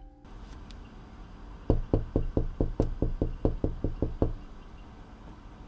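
Rapid knocking on a door: a fist drumming about a dozen quick knocks, around five a second, starting a couple of seconds in and getting a little weaker toward the end.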